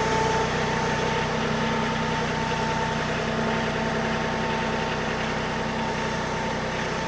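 A machine engine idling steadily with an even hum.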